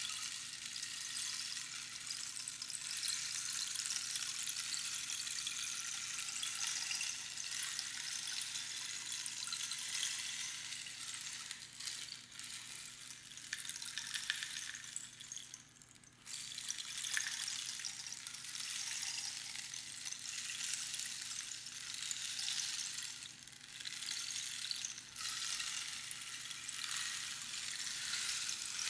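Rainstick: small pebbles cascading down inside the hollow cactus tube past its inner pins, a steady rain-like patter. About halfway through the patter dies away almost to nothing, then starts again at once as the stick is upended.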